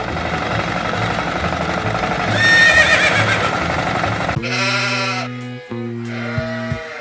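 Tractor engine running with a low pulse. A sheep bleats once about two and a half seconds in. Guitar music with held plucked notes starts about four and a half seconds in.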